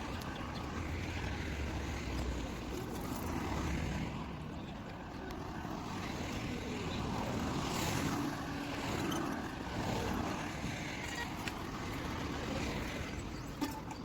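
Outdoor street ambience with passing vehicle traffic.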